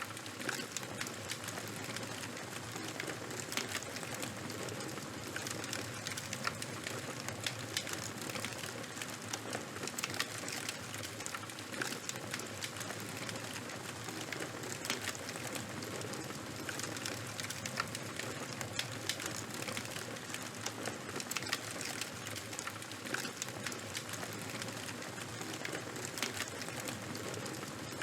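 Fire of burning charcoal and wood crackling: a steady hiss with many small, sharp pops and snaps at irregular moments.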